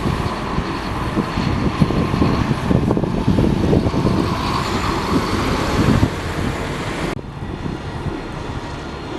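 Heavy vehicle running, a dense rumble with a steady whine over it; the higher hiss drops away suddenly about seven seconds in.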